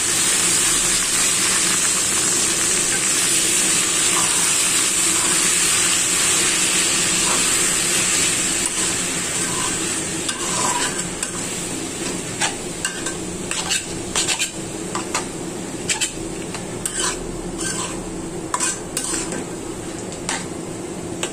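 Water spinach sizzling in hot oil with fried onion and garlic in a metal pan, loudest at first and dying down after about eight seconds. From about ten seconds in, a metal spatula scrapes and clinks against the pan as the greens are stir-fried.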